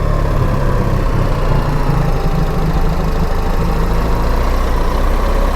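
BMW R 1300 GS boxer-twin engine running steadily at low revs under the rider, with a steady low drone.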